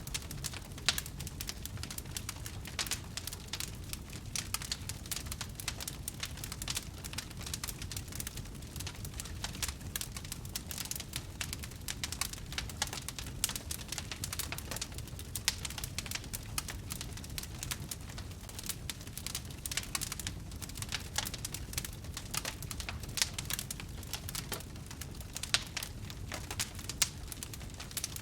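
Wood fire crackling: a steady stream of irregular small pops and snaps over a low, even rumble.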